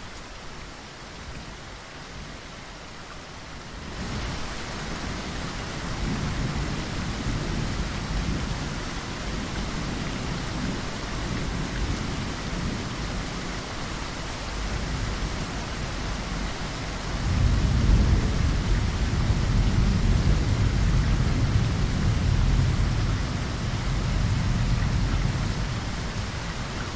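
Steady rain with rolling thunder: the rain grows louder a few seconds in, and a deep, long thunder rumble swells about two-thirds of the way through and dies away over several seconds.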